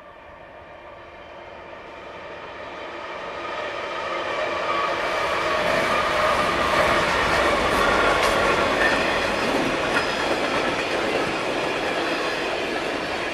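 Norfolk Southern container freight train coming in and passing, growing steadily louder over the first five or six seconds. It then runs at a steady rumble with wheels clattering and clicking over the rails.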